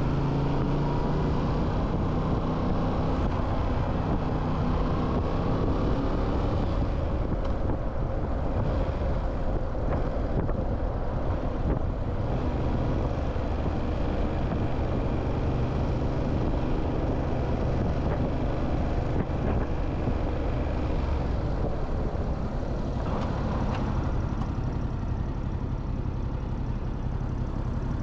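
Motorcycle engine running under way, its pitch rising over the first several seconds as it accelerates, then settling into a steady mix of engine, wind and road noise.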